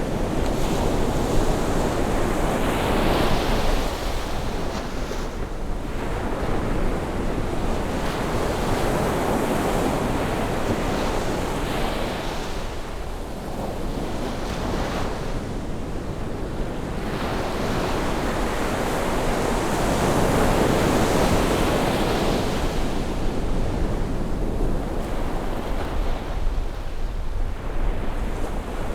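Sea waves washing ashore on a rising tide, a steady wash that swells and eases every several seconds, with wind rumbling on the microphone.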